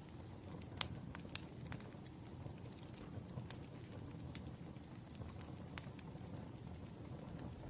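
Wood fire crackling: irregular sharp pops and snaps over a steady low hiss of burning logs, with the loudest pop about a second in.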